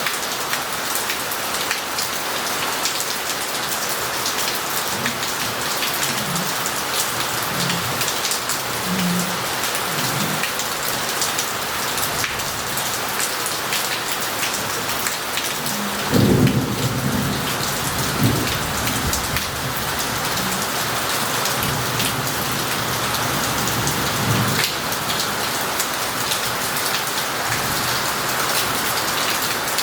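Heavy rain falling steadily and running off roof tiles and the street, with crackling drops throughout. Thunder rumbles faintly a few seconds in, then a loud thunderclap comes just past halfway and rolls on for several seconds.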